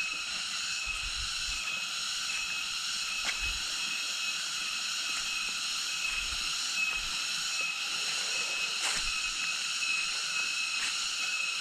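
Steady high-pitched insect chorus droning without a break, with a few faint low thumps.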